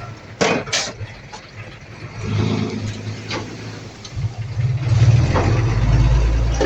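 Bulldozer's diesel engine running and then coming up to a loud, heavy run about five seconds in, with two sharp metallic clanks near the start.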